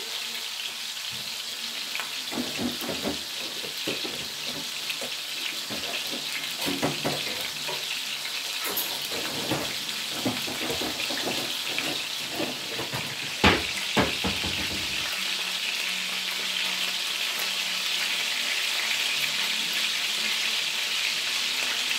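Ground-turkey meatballs searing in hot oil in a very hot skillet: a steady sizzle with scattered crackling pops. One sharper crack comes a little past halfway, after which the sizzle runs smoother.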